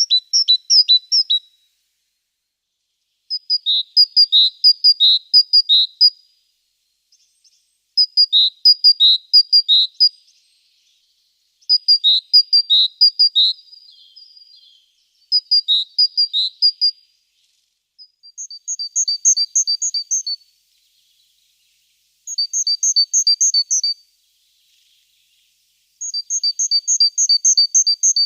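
A songbird singing short phrases of quick, high chirps, about one phrase every four seconds with gaps between; about two-thirds of the way through, the phrases change to faster, paired notes.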